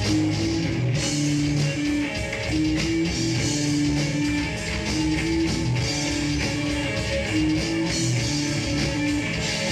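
Live heavy metal band playing: distorted electric guitars holding a shifting riff of sustained notes over drums and crashing cymbals.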